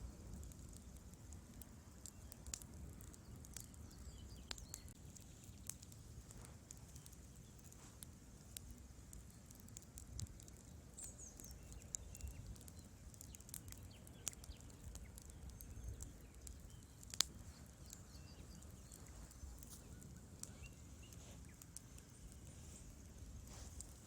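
Wood fire burning in a fireplace, crackling with scattered small pops over a faint low rumble, with one louder pop about two-thirds of the way through.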